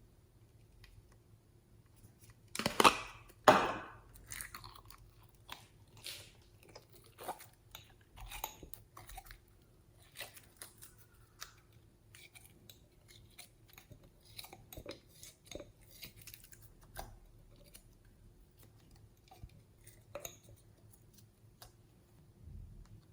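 Slime being squished and stretched by hand, giving sticky crackles and small pops. Two louder crackling squelches about three seconds in, then many scattered little clicks and pops.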